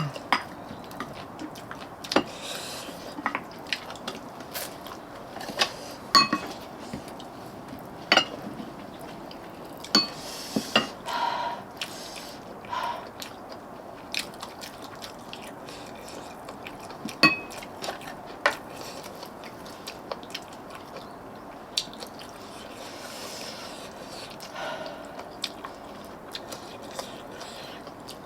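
Cutlery clinking against dishes at irregular intervals, some strikes ringing briefly, with chewing between them while a meal of braised pollack is eaten.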